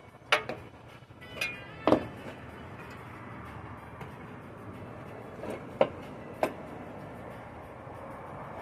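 Handling of a laminated impact-glass pane: a handful of sharp knocks and clinks, a few with a short ring, spread irregularly over a steady background noise.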